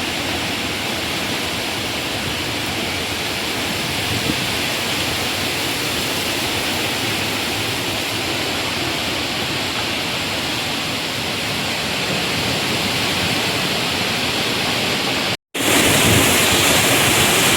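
Strong storm wind blowing hard into the microphone, a steady loud rush. It cuts out for a moment about fifteen seconds in, then comes back slightly louder.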